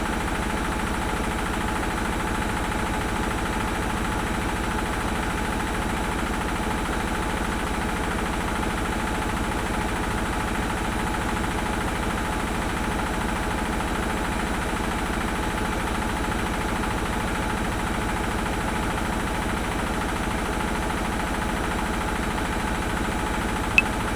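Washing machine running steadily: a constant mechanical hum and churn. One sharp metronome click sounds near the end.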